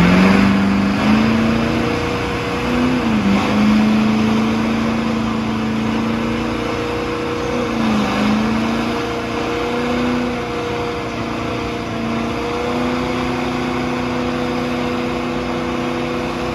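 Truck engine held at high revs during a burnout: a steady, high engine note that dips in pitch briefly about three seconds in and again about eight seconds in.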